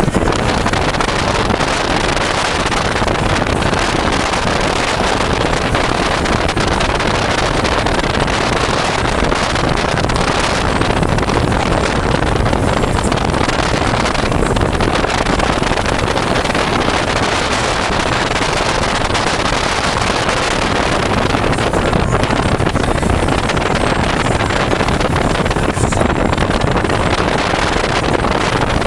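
A 1995 Sea Ray 330 Sundancer cruiser with Peninsular turbo diesel engines running under way: a steady wash of engine and water noise, with wind buffeting the microphone.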